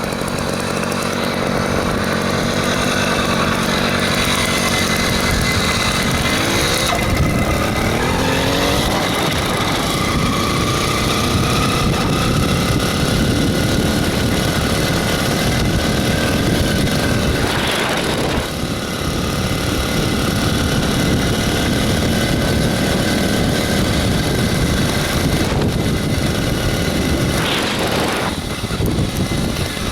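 66cc two-stroke motorized-bicycle engine running under way, revving up from about six to ten seconds in and dropping off briefly twice later on.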